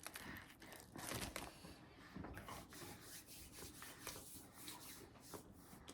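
Faint rustling and crinkling of a sandwich's paper wrapper as the sandwich is handled, a little louder about a second in.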